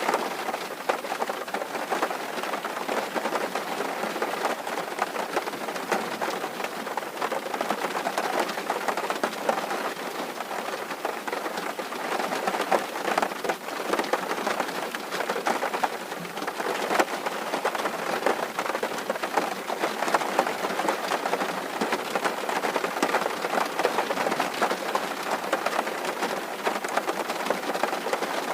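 Steady rain falling on a tin roof: a dense stream of small drop impacts over an even hiss, with no let-up.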